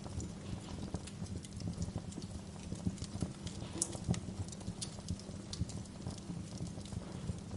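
Fire crackling in a fireplace: a dense, irregular stream of sharp pops and snaps over a steady low rumble, with a few louder pops around the middle.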